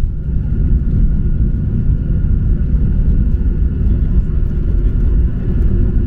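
Steady low rumble of a Boeing 737-800 heard from inside the passenger cabin during landing, with a few faint steady tones above it.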